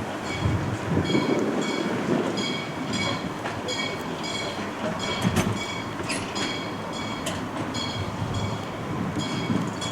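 A heritage railway train running along the track with a steady rumble, and a short high squeak repeating about twice a second.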